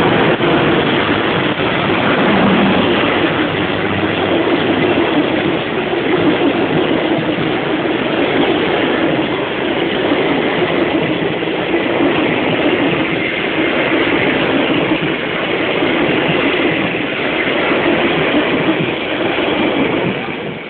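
Train running close by, a loud steady rush of wheel and engine noise that fades away near the end.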